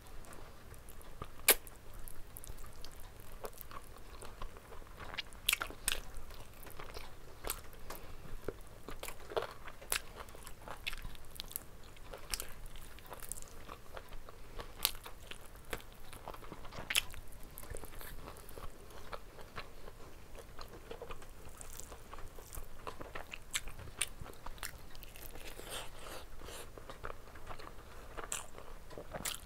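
Close-up eating sounds: biting meat off a curried chicken drumstick and chewing it, with irregular wet clicks and crunches throughout. The loudest snap comes about a second and a half in.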